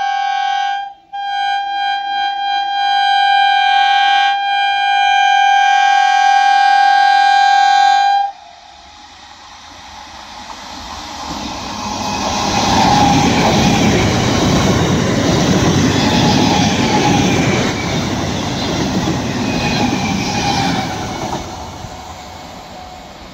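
Electric train's horn held in a long blast, with a short break about a second in, cutting off about eight seconds in. Then an EMU local train passes close by: the rumble of its wheels on the rails builds, stays loud for several seconds and fades as it runs away.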